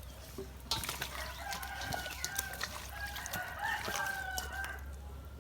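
Several chickens clucking and calling over one another, in short overlapping pitched calls.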